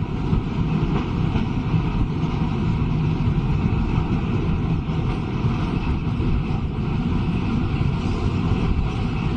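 A steady low rumbling noise that holds unchanged, with no distinct events.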